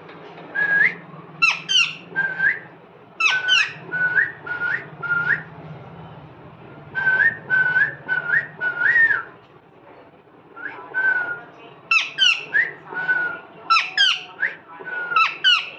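Pet parrot whistling and chirping: runs of short rising whistles mixed with sharp high chirps, in bursts with a brief pause about halfway through.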